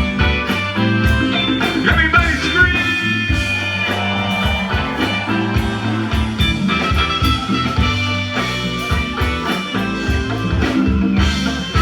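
Live rock band playing an instrumental passage through a PA system: electric guitar lines with bent notes over bass and drum kit, with a steady beat.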